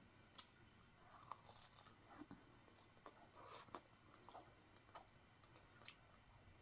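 Faint chewing of a soft bread egg muffin sandwich, with scattered small mouth clicks and a slightly sharper click about half a second in.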